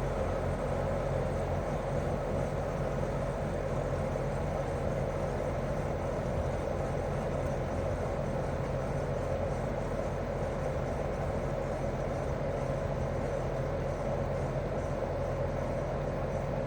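Daikin R28RMV mini-split outdoor unit running steadily in heating mode: a twin-cylinder swing compressor hum with steady low tones, under even fan noise.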